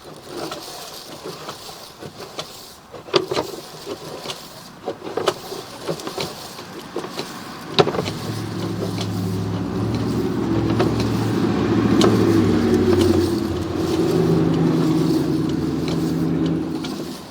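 Scattered sharp clicks and knocks. From about eight seconds in, a steady engine-like drone with shifting pitch builds up, then drops away near the end.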